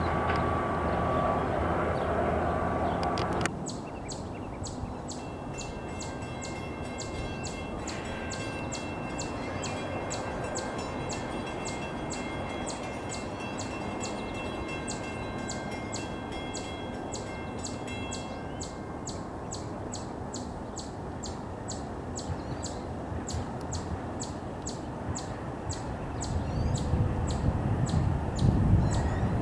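An even, rapid ringing at about two to three strokes a second, with a steady hum in the first few seconds that cuts off abruptly. Over the last few seconds the low rumble of an approaching NJ Transit train grows louder.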